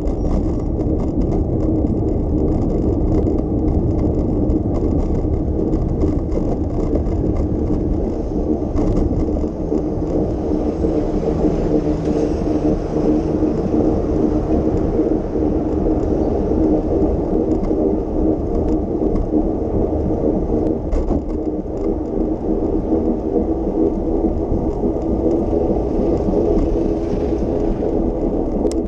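Bicycle rolling along a city street: a steady rumble and whir from the tyres and drivetrain, with a few light rattles.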